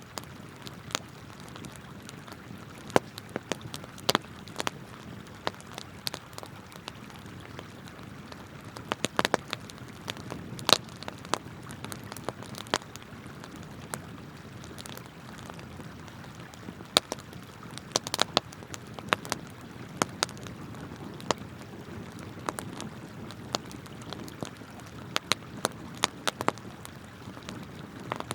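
Wood campfire crackling, with sharp irregular pops and snaps over the steady rush of flowing river water.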